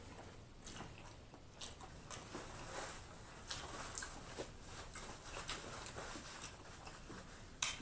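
Faint close-miked eating sounds: soft chewing and small mouth clicks, with a paper towel rustling as hands are wiped from about three seconds in.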